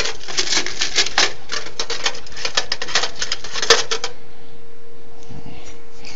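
Small hard objects clattering and rattling as a hand rummages through a bucket of odds and ends, a rapid run of clicks that stops about four seconds in.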